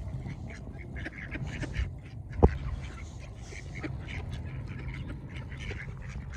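Ducks quacking repeatedly as they crowd in to be fed, over a steady low rumble, with one sharp thump about two and a half seconds in.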